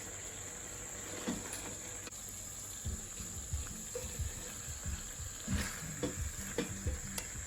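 Chicken stew in sauce simmering and sizzling in the pot, a steady hiss. Low background music comes in faintly about three seconds in.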